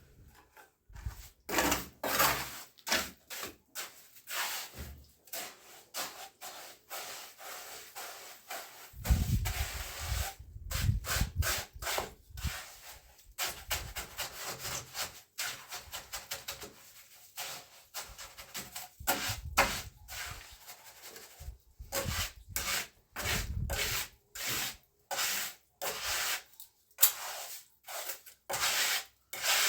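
Repeated scraping strokes of a hand tool rubbing over a rough surface, irregular in pace, with some dull thumps about nine seconds in and again near twenty-three seconds.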